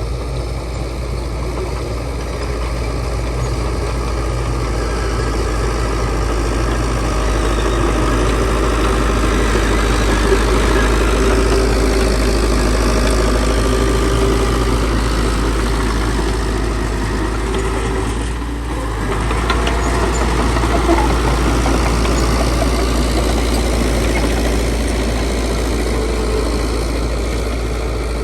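Heavy construction machine's diesel engine running steadily, with a brief dip in loudness about two-thirds of the way through.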